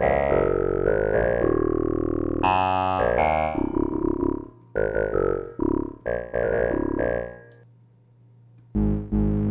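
Synthesizer preset from the Dimension Kontakt library played on a keyboard: held chords, then a run of short notes about four seconds in. It fades to near silence before another patch starts near the end.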